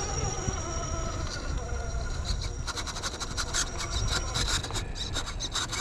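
Scraping and gritty clicking, dense from about halfway in, over a thin steady high whine and a low rumble: typical of an RC rock crawler's tires grinding over rock while its motor whines.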